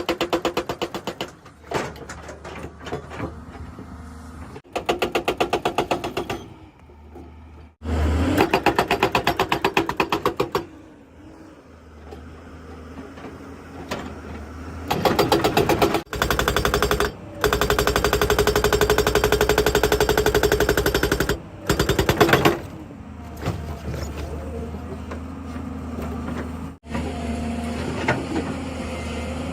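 Excavator-mounted hydraulic rock breaker hammering in rapid bursts of many blows a second, stopping and starting several times, with the machine's diesel engine running between bursts.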